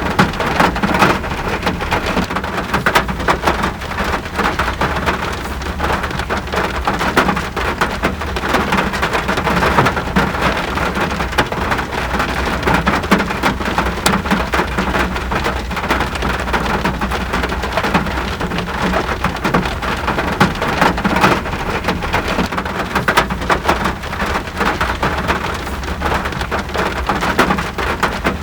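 Steady rain falling, a dense patter of drops with a constant low rumble underneath.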